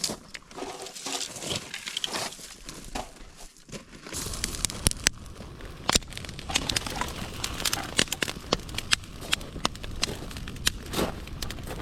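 Small beach fire of driftwood and plastic garbage crackling with sharp pops as it catches. Wind rumbles on the microphone from about four seconds in.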